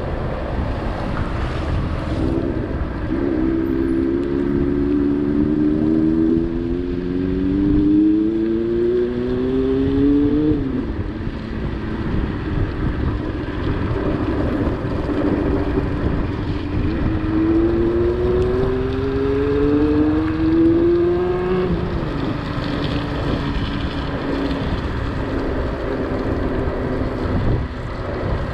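An engine-like motor twice rises steadily in pitch for several seconds and then drops off, over a steady low rumble like wind on the microphone.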